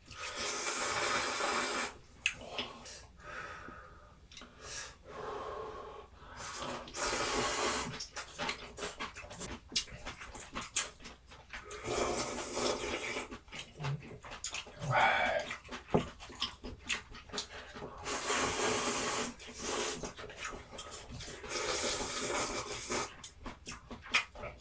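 Slurping of spicy ramyun noodles in long, noisy pulls of a second or two, repeated several times, with wet chewing clicks in between.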